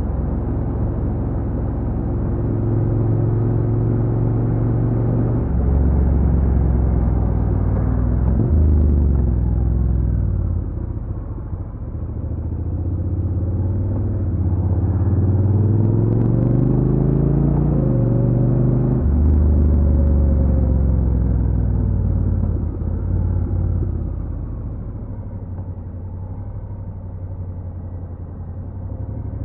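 Honda NC750X's parallel-twin engine with its stock exhaust, heard while riding: the engine note climbs steadily through a gear for several seconds, drops sharply at an upshift a little past the middle, runs steady, then eases off and gets quieter near the end.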